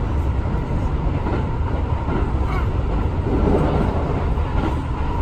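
Passenger train running at speed, heard from inside the carriage: a steady low rumble of the wheels on the track.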